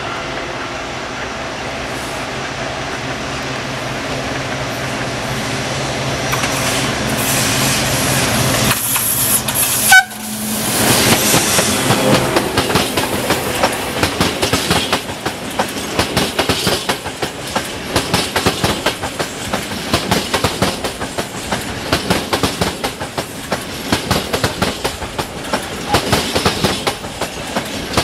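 Diesel-electric locomotive LDE 130 003 approaching with its engine running, growing steadily louder, and passing about ten seconds in. After it, a train of flat wagons loaded with rails rolls past with a continuous rhythmic clickety-clack of wheels over the rail joints.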